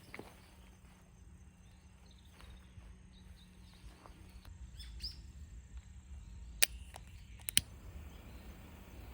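Quiet outdoor ambience with a low rumble of wind and faint bird chirps. About two-thirds of the way through come three sharp knocks, one and then two close together, like gear being set down or handled.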